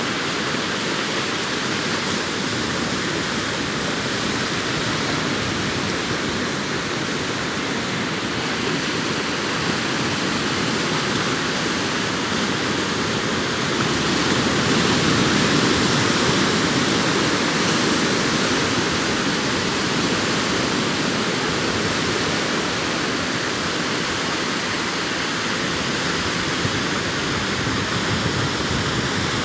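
Sea waves breaking on a beach: a steady rush of surf that swells a little about halfway through.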